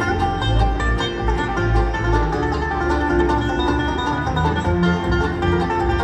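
Live bluegrass band playing an instrumental break between verses, with banjo picking to the fore over a steady low bass line.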